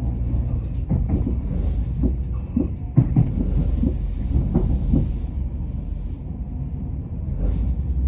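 Moving passenger train heard from inside the carriage: a steady low rumble with a run of knocks from the wheels crossing track joints, loudest about three seconds in, then smoother running.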